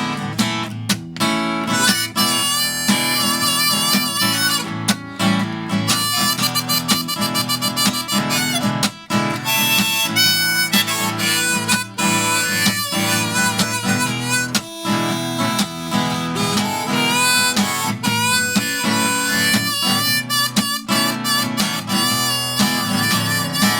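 Blues harmonica solo over strummed acoustic guitar, the harmonica playing bent, wavering notes in an instrumental break between verses.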